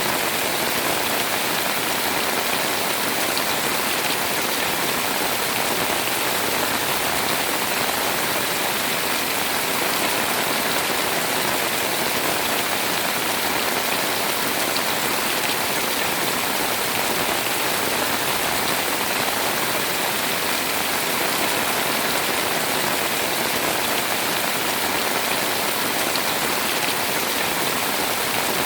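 Heavy rain pouring steadily, a dense, even hiss with no breaks or changes.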